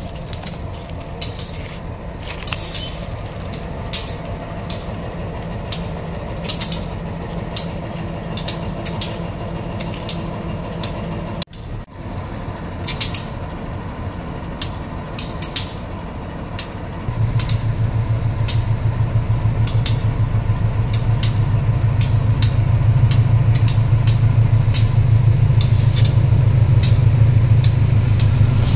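A train running slowly by on the track, with sharp clicks of the wheels over rail joints every half second to a second over a steady low rumble. About two-thirds of the way in, a diesel locomotive's low engine drone comes in and becomes the loudest sound.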